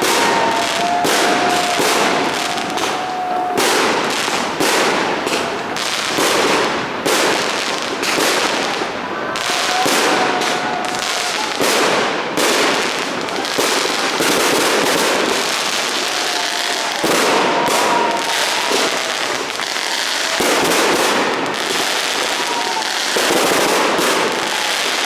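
Fireworks barrage firing without a break: many bangs and crackles a second, with a few thin whistling tones in between.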